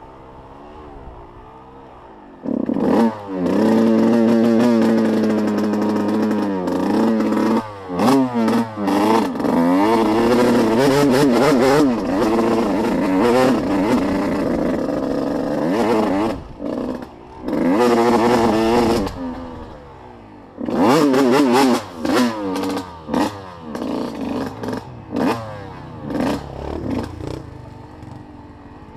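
Small off-road vehicle engine revving hard, rising and falling in repeated bursts. It starts about three seconds in, drops off briefly, revs again, then settles to quieter running near the end.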